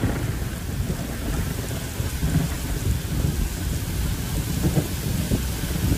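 Heavy rain pouring down in a storm, a steady hiss of rain over a continuous low rumble.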